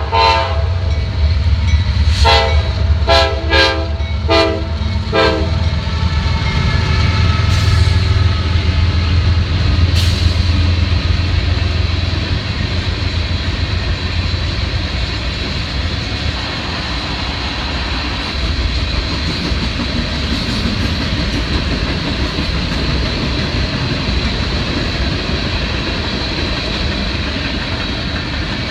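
A train horn sounds a string of short blasts in the first five seconds, followed by the steady rumble and clatter of the train rolling past, easing off slightly toward the end.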